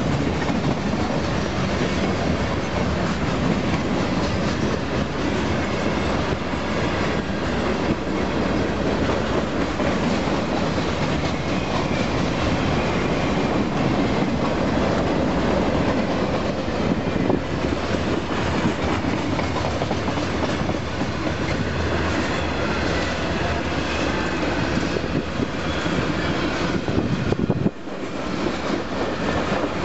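Freight train of boxcars and tank cars rolling past, its steel wheels running steadily on the rails; the sound drops sharply for a moment near the end.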